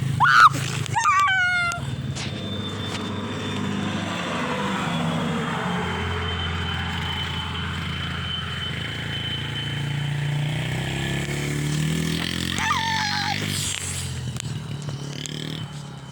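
Dirt bike engine running, its pitch drifting up and down, with brief high-pitched squeals in the first two seconds and again about thirteen seconds in.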